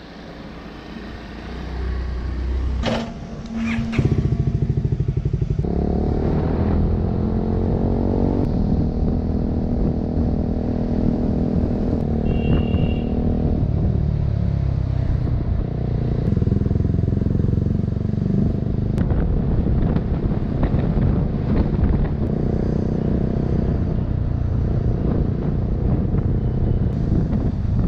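Motorcycle engine with a couple of sharp clicks first, then running loudly from about four seconds in. Its pitch climbs as the bike accelerates away, then it runs steadily under way.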